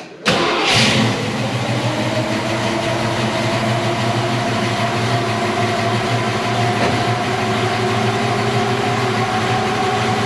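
A 1966 Ford Mustang's 289 V8 starts about a quarter second in with a loud burst, then settles into a steady idle whose pitch rises slightly. This is the first start on a newly installed Pertronix ignition coil, and the engine firing shows the coil is working.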